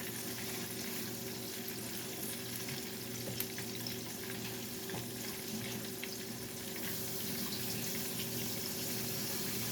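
Salmon pieces frying in hot oil in a pan: a steady sizzle with a few faint crackling pops, a little louder in the last few seconds.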